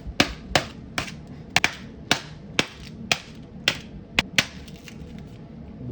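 Sharp, irregular taps and clicks, about two a second, from trading card packs and their packaging being handled.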